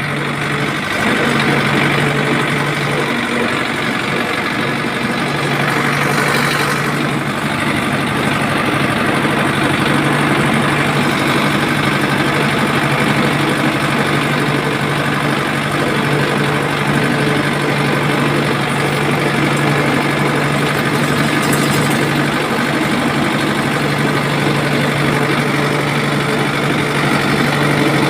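A machine running steadily with a continuous low hum and a busy rattle above it, like an engine at idle, getting slightly louder about a second in.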